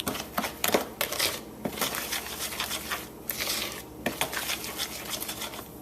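A utensil stirring thick brownie batter in a mixing bowl, with irregular knocks and clicks against the bowl and stretches of scraping.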